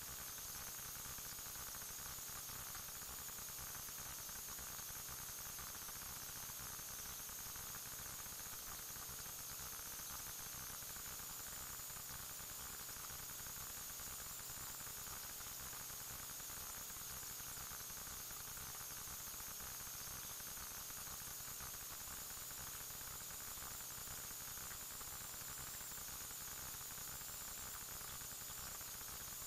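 Steady electronic static hiss with a faint hum and two thin high whines, unchanging throughout: recorder noise with no distinct sound events.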